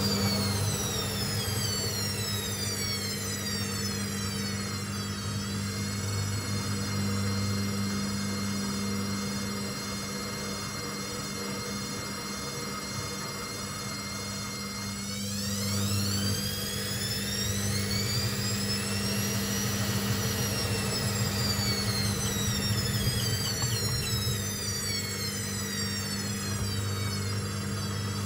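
Hoover VisionTech VTS715D21X washing machine running, its drum motor whining and sliding down, up and down again in pitch as the drum speed changes, over a steady hum.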